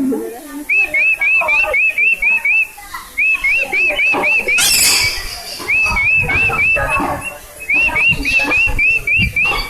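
Whistling in quick runs of short rising-and-falling notes, about four a second, in four bursts separated by short pauses.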